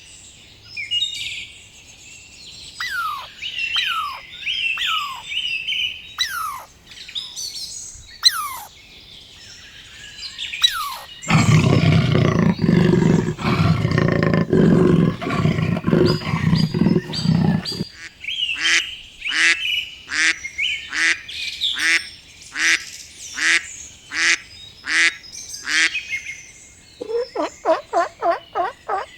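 A run of animal calls: birds chirping with short falling whistles, then a loud, low call from a larger animal lasting about six seconds, then a string of calls about one a second, and near the end a rapid gobbling like a turkey's.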